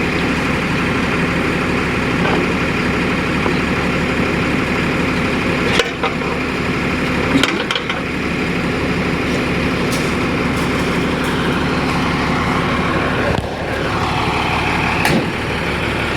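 Delivery lorry's engine idling steadily, with a few brief knocks or clicks over it.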